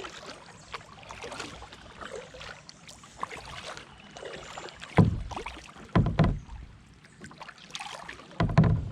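Sit-on-top kayak being paddled on a river, with paddle strokes and splashing water. Three loud low thumps come about five, six and eight and a half seconds in.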